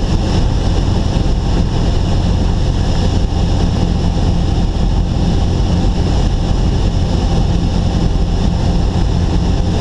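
Cessna 172's engine throttled back to idle under a steady rush of wind and airflow noise as the plane glides down on approach. The sound is loud and even, with a low drone and no change in power.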